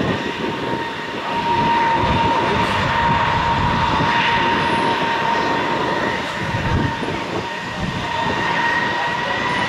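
Jet airliner's turbofan engines running with a steady high whine over a low rumble, the whine rising slightly in pitch toward the end.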